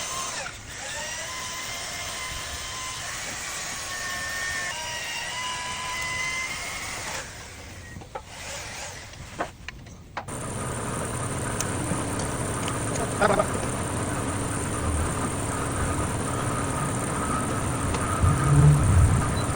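A whining motor with several shifting pitches, then a quieter pause with a few clicks. About ten seconds in, an engine suddenly comes in and runs steadily, with a few low thumps near the end.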